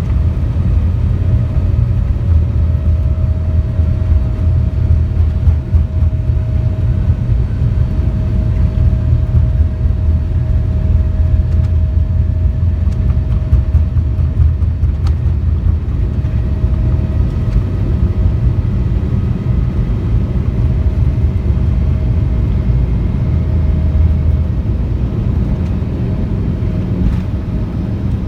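Cabin noise of a Boeing 787-9 airliner: a loud, steady low rumble from the jet engines and airflow, with a steady mid-pitched whine over it.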